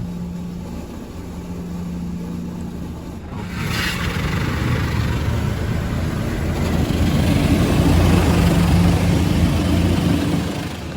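Automatic car wash working over the car, heard from inside: a steady low hum, then from about three and a half seconds in a growing rush of water spray and brushing against the body, loudest near the end before easing off.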